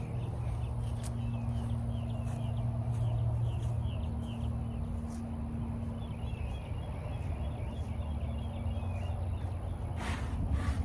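Honeybees buzzing as a steady hum around an open hive, with small birds chirping over it and a couple of sharp knocks near the end.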